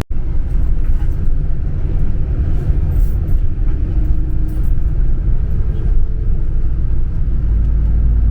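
Steady, loud low rumble of a moving vehicle, with wind on the microphone and faint voices in the background.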